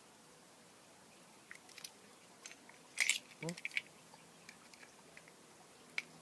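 Sparse light clicks and ticks of an Allen key working on a compound bow's small cam-pocket screws and metal hardware, with a louder cluster of clicks about three seconds in and a short squeak just after.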